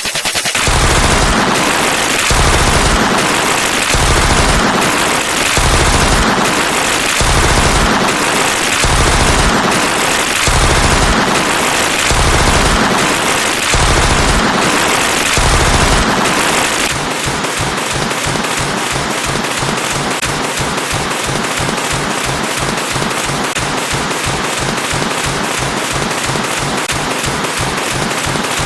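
Loud, harsh distorted noise with a deep pulse about every 0.8 seconds, changing about two-thirds of the way through to a fast, rattling stream of clicks like machine-gun fire.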